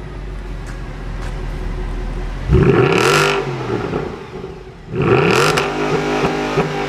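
Mercedes-AMG C63's V8 idling, then revved hard twice, about two and a half seconds in and again about five seconds in; each rev climbs quickly and falls back toward idle.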